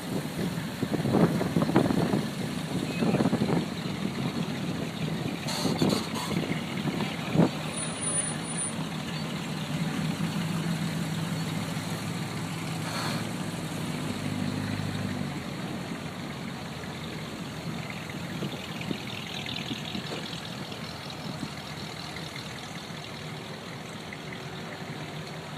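Car engines running as vehicles move past, with several short louder surges in the first few seconds and a steadier, fainter engine hum later.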